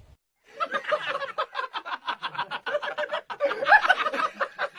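A person laughing hard in rapid, unbroken bursts, starting about half a second in after a brief gap.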